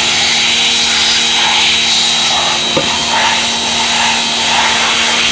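An electric machine spins up and runs steadily with a hissing rush and a high, even whine.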